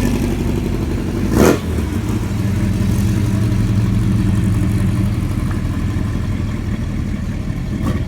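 A car engine running steadily at low revs, with a short sharp knock about a second and a half in.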